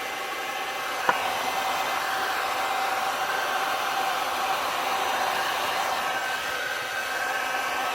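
Heat gun blowing steadily, with a steady hum in the air noise, used to dry and push wet alcohol ink. A single sharp click about a second in.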